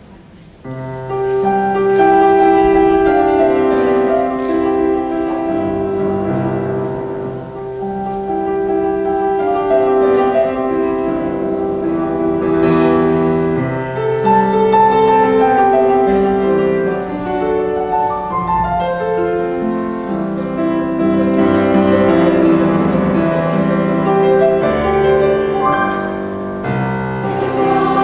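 Piano playing the introduction to a choral piece, starting about a second in with sustained chords and a melody line.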